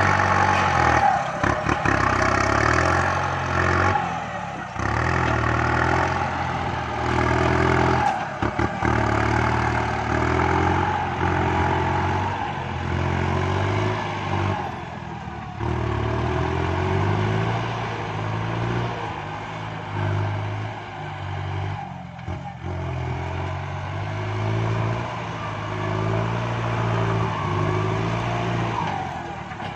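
Kubota MU5702 tractor's diesel engine running at work, its pitch and level dipping and recovering every few seconds.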